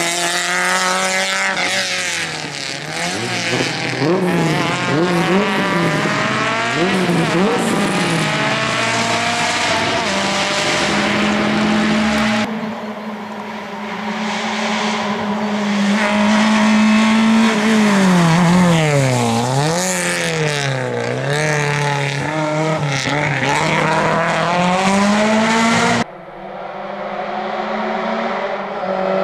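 Skoda Favorit rally car's engine revving hard, its pitch climbing and dropping again and again through gear changes and lifts. The sound changes abruptly about twelve seconds in and again near the end.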